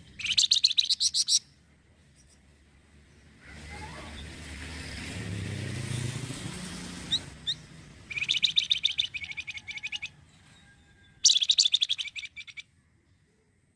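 Flamboyan songbird singing in three bursts of rapid, high chattering trill, each a second or so long. Between the first and second bursts, a passing vehicle's rumble swells and fades.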